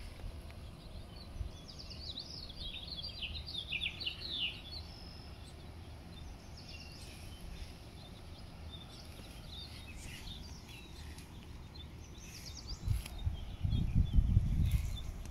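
Small birds chirping in short clusters over a steady low outdoor background. Near the end a louder low rumble comes in.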